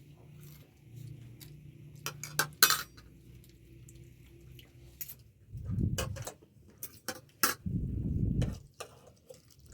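Light clinks and taps of dishes and utensils, followed by two low, rough sounds of about a second each in the second half.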